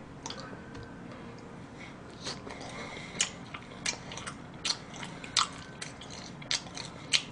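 A person biting into and chewing a moist chocolate cake slice with white frosting, close to the microphone: irregular soft wet mouth clicks and smacks, about two a second, growing more frequent after the first couple of seconds.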